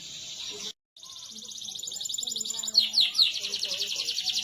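Domestic canary singing a rapid rolling trill. The song drops out for a split second about a second in, comes back and swells, and is broken by a few quick sweeping chirps before the fast trill resumes.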